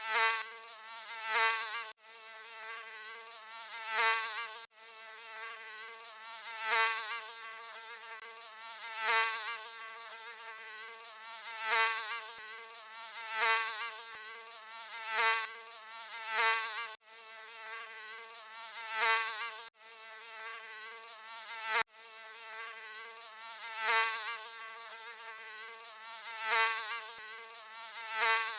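Mosquito buzzing, a thin whine that keeps swelling loud and fading back, roughly every couple of seconds, like passes close to the ear. A few abrupt momentary cut-outs break the buzz where the loop is spliced.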